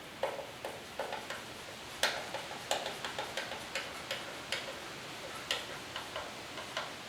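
Irregular series of small sharp clicks and taps, a few a second, from hand work on motorcycle parts during assembly.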